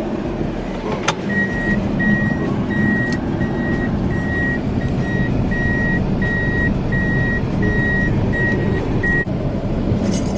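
A vehicle's electronic warning beeper sounding short, even beeps at one pitch, about two a second, for roughly eight seconds over the steady rumble of the vehicle. A single click comes about a second in.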